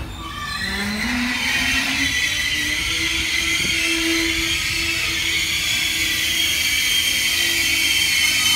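The RFI Archimede track-measurement train rolling slowly past along the platform as it arrives and brakes. It makes a steady high-pitched brake squeal of several tones over the rumble of the coaches, growing louder over the first two seconds.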